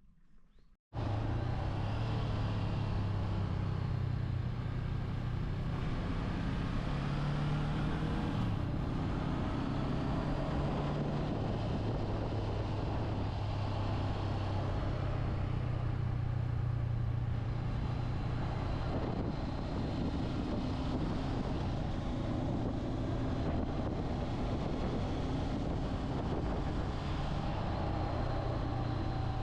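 Motorcycle running along at a steady pace: a low engine hum under a steady rush of noise, cutting in abruptly about a second in after near quiet.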